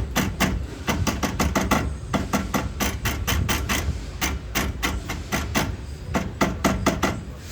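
Rapid, slightly uneven clicking and knocking, about five or six a second, from a Fiat Palio's front driveshaft at the CV joint, over a steady low hum. Worn splines leave play between the driveshaft and the CV joint housing.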